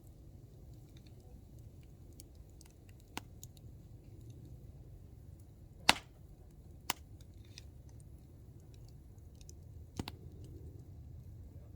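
Hardwood campfire burning: a low steady rush of flame with scattered sharp pops and snaps of the burning wood, the loudest one about halfway through, with a few smaller crackles around it.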